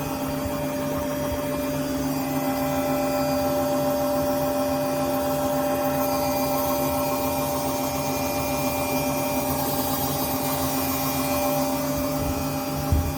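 Drean 6.8 washing machine running a spin with clothes in the drum after its worn shaft was replaced and the drum shimmed: a steady motor hum with a steady whine and no rattle or knocking. A single short knock near the end.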